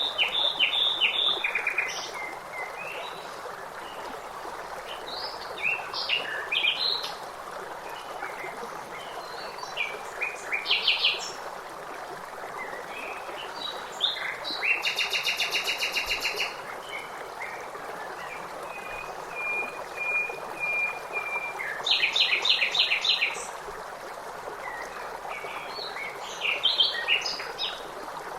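Several songbirds singing and chirping in short phrases over a steady rush of flowing water, with a fast buzzy trill in the middle and a quick run of repeated notes later on.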